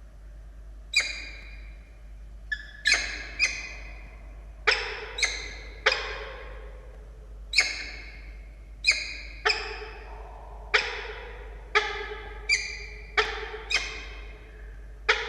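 Peregrine falcon calling over and over, about one harsh, sharp-starting call a second, each trailing off.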